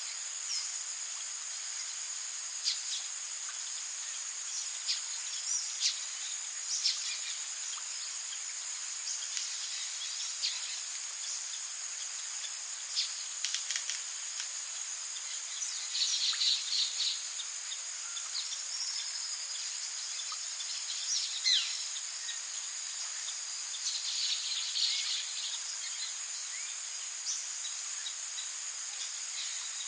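Rainforest ambience: a steady high-pitched insect drone over a hiss of rain, with scattered short chirps and two brief bursts of bird calls, about halfway through and again after three-quarters.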